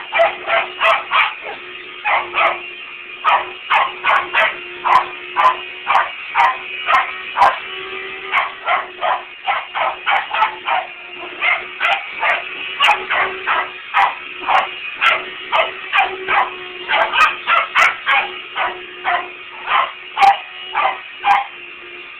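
Dog barking repeatedly and frantically at a running vacuum cleaner, about two sharp barks a second with a few brief pauses. The vacuum's steady hum runs underneath.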